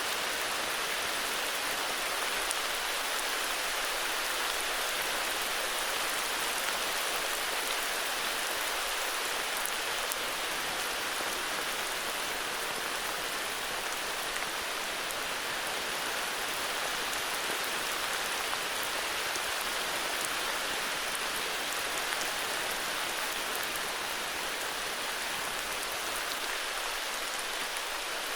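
Steady heavy rain falling, a constant even hiss of many drops with no thunder or other events.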